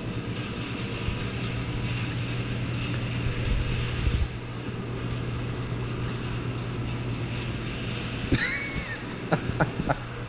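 Steady mechanical drone with a low hum under a noisy rush. Near the end come a short squeak and a few sharp clicks.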